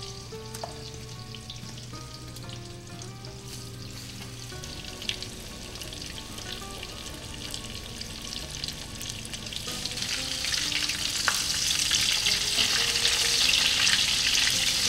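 Egg-washed chicken cutlets frying in a hot pan of olive oil and butter, a steady sizzle that grows louder over the second half.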